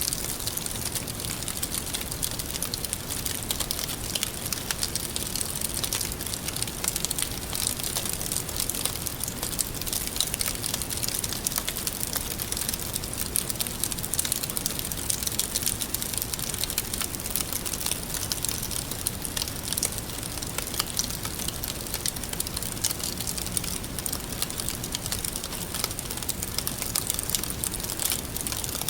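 Wood fire burning steadily, with a constant crackle of many small pops.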